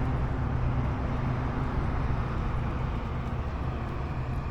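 Motorcycle engine running steadily at road speed, with wind rush over the microphone.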